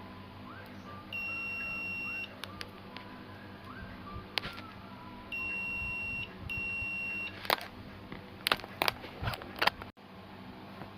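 Three electronic beeps at one steady pitch, each about a second long, the second and third close together, followed by a quick run of sharp clicks.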